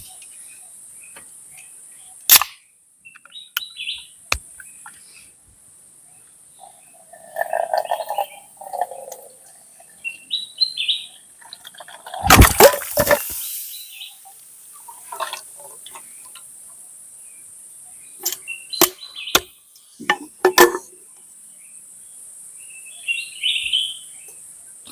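Outdoor forest ambience: a steady high-pitched insect drone with a few short bird chirps, broken by scattered clicks and knocks and a louder clattering noise about halfway through.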